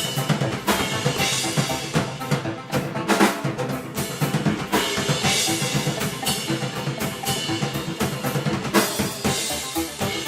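Live band playing loud, with a full drum kit driving the beat under sustained pitched instruments and cymbal crashes every two seconds or so.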